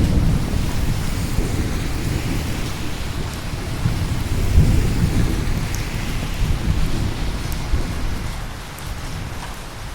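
Steady rain with rolling thunder, a low rumble that swells about halfway through and fades near the end.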